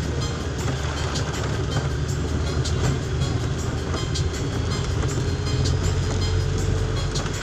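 Steady low rumble of a vehicle driving through heavy rain, heard from inside, with scattered sharp ticks of rain striking the body and glass.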